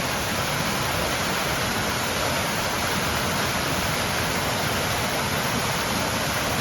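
Steady rush of falling and running water from a waterfall and fountain, with water pouring across a trough.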